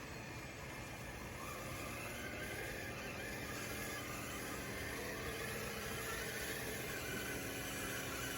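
Motor whine of a DXR2 RC bulldozer running steadily, its pitch drifting slowly up and down as it works.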